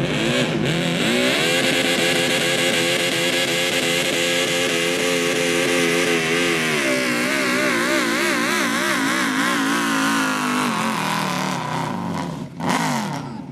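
Garden tractor engine revving up and running at high speed. Its pitch wavers for a few seconds, then drops away near the end with one brief blip of revs.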